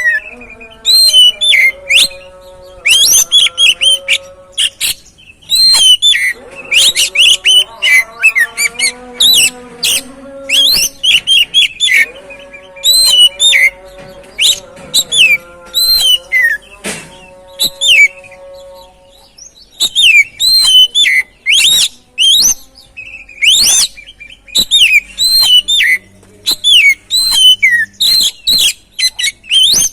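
Oriental magpie-robin singing: rapid, loud bursts of sharp, high sweeping whistles and chirps, with a lower, wavering pitched sound underneath for much of the first two-thirds.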